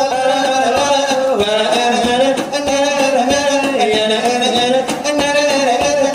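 Selawat dulang: voices chanting a long, ornamented melody in unison while the brass tray (dulang) is beaten in a steady rhythm with several strikes a second.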